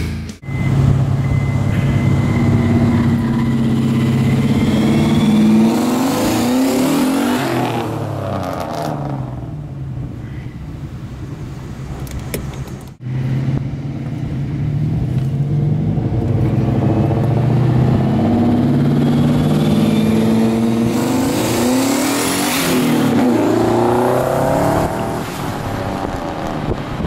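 Turbocharged 2001 Ford Mustang GT's 4.6-litre V8 running under load in short pulls, its pitch climbing and dropping back several times. A sudden break about halfway through splits the driving into two stretches.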